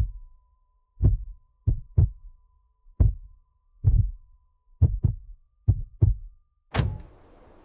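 A slow series of dull low thumps, about one a second and some in close pairs like a heartbeat, under a faint steady high tone that fades out around the middle. A sharp, bright hit comes near the end.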